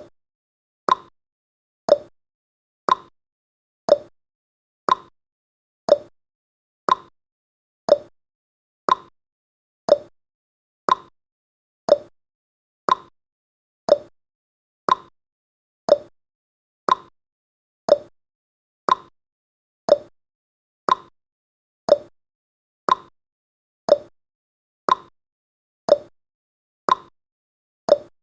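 Clock ticking sound effect, one sharp click every second, alternating between a higher and a lower click in a tick-tock pattern.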